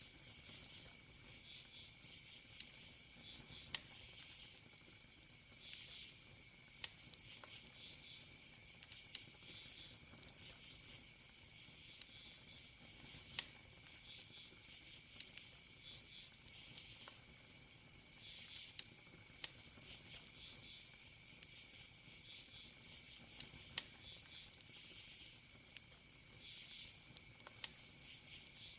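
Faint wood fire crackling, with sharp pops every second or so and a few louder snaps. Underneath, crickets keep up a steady high trill with bursts of chirping.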